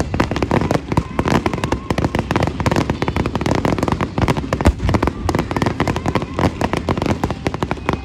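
Aerial fireworks bursting in a dense, unbroken barrage: many booms and crackles a second, overlapping one another.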